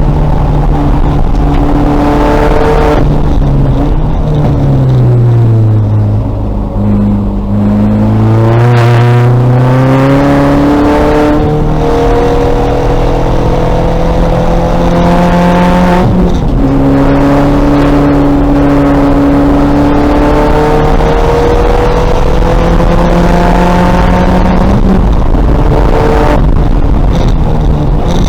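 2000 VW Golf race car's engine under hard driving. Its pitch falls as it slows and downshifts early on, climbs steadily under acceleration, steps at a gear change about two-thirds of the way in, climbs again and drops once more near the end.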